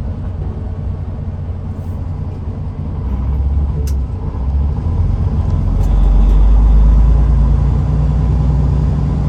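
A semi truck's diesel engine and road noise heard from inside the cab: a steady low rumble that grows louder from about three seconds in.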